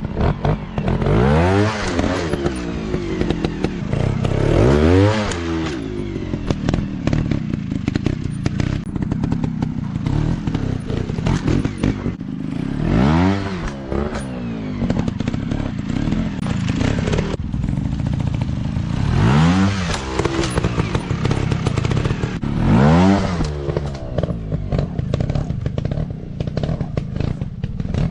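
Dirt bike engine running hard, its revs swelling up and dropping back about five times, with clattering and knocks in between.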